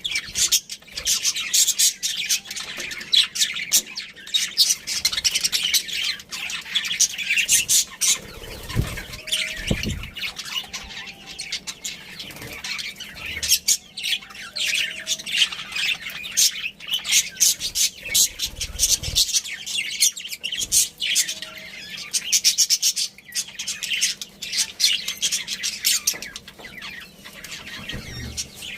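Budgerigars chattering and chirping without a break, a dense run of rapid high chirps and squawks, with a few low dull thumps about a third of the way in.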